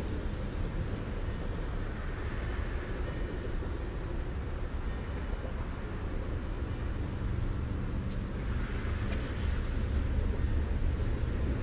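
Thunderstorm sound: a steady low rumble of gusting wind and rain, growing a little louder near the end, with a few sharp ticks in the second half.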